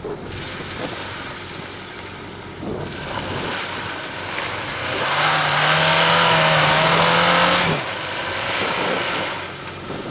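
Off-road Suzuki 4x4's engine under way, revving hard for about three seconds in the middle, its pitch climbing slightly, before dropping back suddenly.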